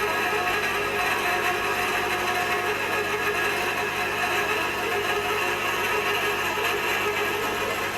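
Steady machinery noise: a continuous mechanical drone with several held tones over it, unchanging throughout.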